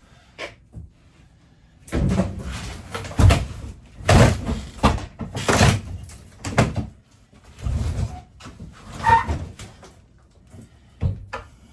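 Heavy bangs and knocks with scraping in between as an RV's interior wall partition is forced loose and knocked out. They start about two seconds in, come unevenly for some seven seconds, then die down to a few light clicks.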